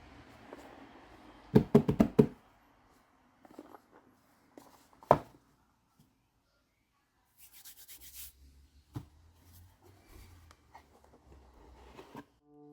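Small objects being handled: a quick run of about five knocks, then a single sharper knock about five seconds in, a short rustle, another knock, and scattered light taps.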